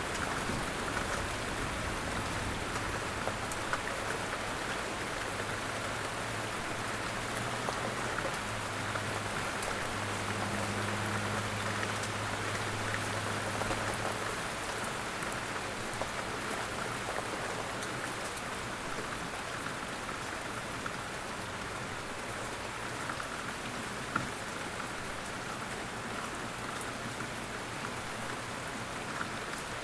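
Steady rain falling, an even hiss of drops. A low rumble lies under it through the first half and fades out about halfway.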